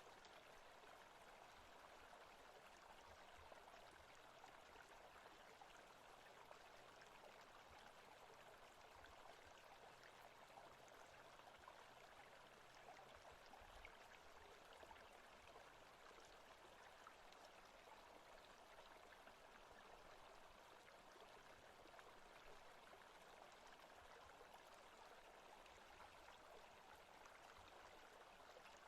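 Faint, steady forest-sounds ambience: an even rushing hiss with no separate events.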